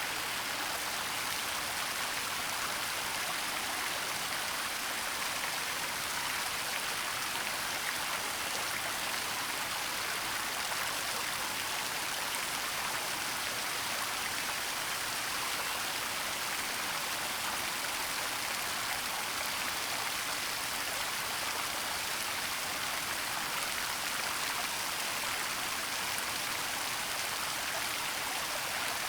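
Waterfall and forest stream running: a steady, even rush of water with a bright hiss and little low end.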